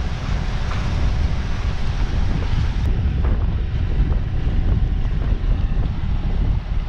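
Wind buffeting the microphone aboard a boat at sea, a loud, uneven low rumble with the hiss of wind and waves over it. The upper hiss drops away about three seconds in.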